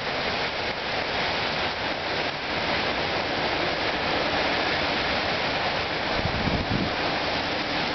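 Heavy downpour: rain falling hard and steady as a dense, even hiss. There is a brief low rumble a little past six seconds in.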